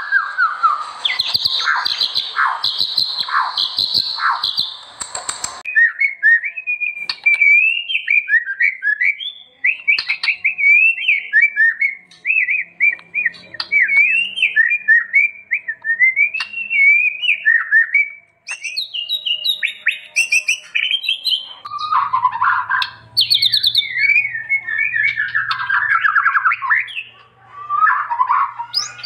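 White-rumped shama (murai batu) singing: a continuous run of varied whistled and warbling phrases. The recording cuts abruptly to a different song track about five seconds in, and a faint low hum joins the song near the end.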